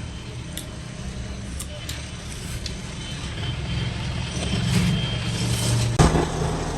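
Construction machine's engine running steadily, a low hum that swells louder toward the end, with a sharp knock about six seconds in.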